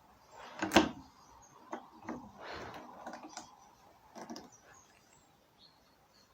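A series of irregular clicks and knocks, the loudest a sharp one about a second in, with a few lighter ones and a brief scraping stretch after it.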